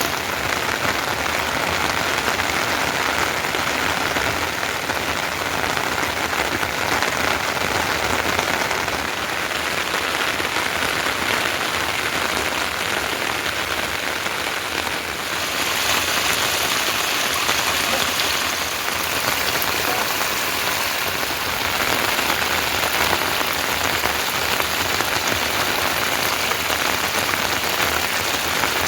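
Steady monsoon rain falling, an even dense hiss of drops on surfaces, its texture shifting slightly about halfway through.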